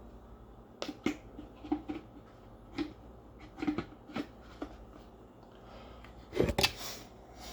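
Scattered plastic knocks and clicks from handling a Dirt Devil Dynamite Plus upright vacuum, switched off, while its dirt compartment is opened and emptied. The loudest cluster of knocks comes near the end.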